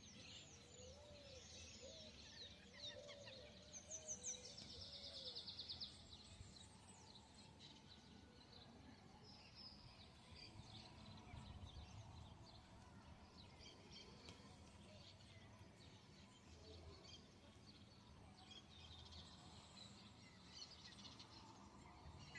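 Faint outdoor background with birds calling: a run of short, low, arched notes and high chirps in the first few seconds, a rapid high trill around four to five seconds in, then scattered faint chirps.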